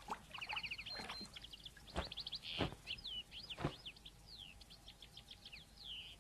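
Songbirds chirping: quick repeated trills and short falling whistles. A few soft knocks come about two, two and a half, and three and a half seconds in.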